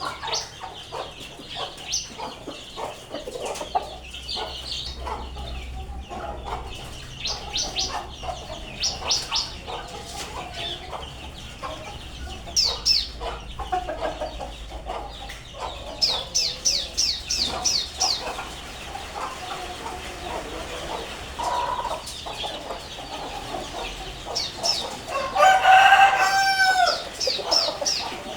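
Chickens clucking, mixed with clusters of short high chirps, and a rooster crowing loudly once near the end.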